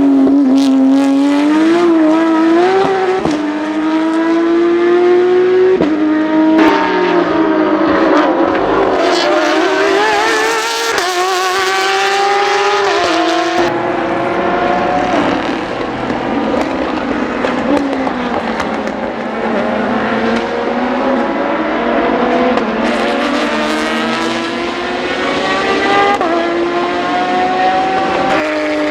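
Porsche 911 racing cars' flat-six engines at full race pace, the pitch climbing through each gear and dropping sharply at upshifts, then falling away as the cars brake and pass. At times more than one car is heard at once.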